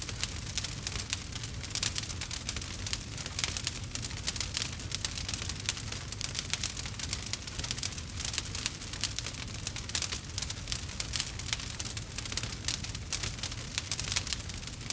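Campfire burning: dense, irregular crackling over a low, steady rumble.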